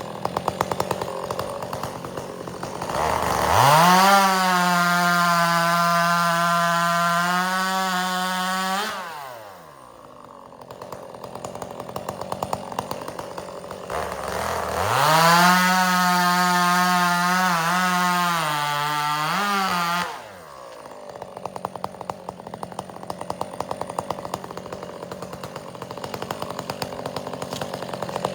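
Two-stroke chainsaw idling, then revved up and held at full throttle twice for about six seconds each, bucking through firewood, and dropping back to idle after each cut.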